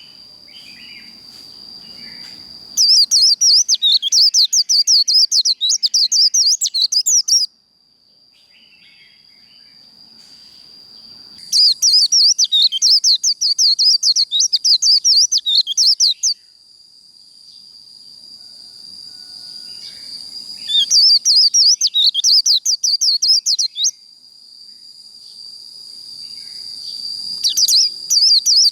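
White-eye (vành khuyên) singing its rapid, twittering 'líu' song in four loud bursts of several seconds each, over a thin, steady high tone that swells before each burst.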